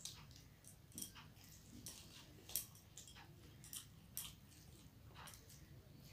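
Close-up mouth sounds of someone eating rice by hand: quiet chewing with irregular wet smacks and clicks, roughly one every half second to second.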